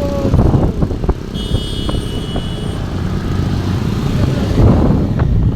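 Motor vehicle running with a steady low rumble of engine and wind. A brief high-pitched tone sounds about a second and a half in.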